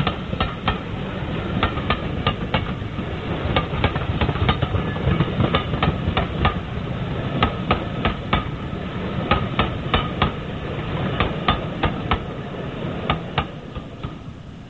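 A train rolling by, with a steady low rumble and many sharp, irregular metallic clanks from wheels over rail joints and points.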